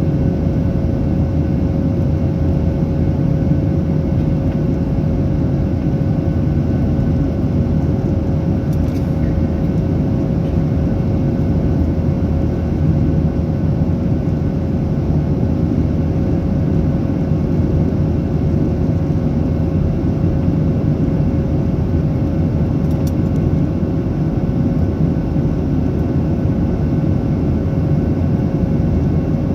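Steady cabin noise inside a Boeing 737-800 with CFM56-7B engines: a continuous, even mix of engine and airflow noise with a constant hum running through it.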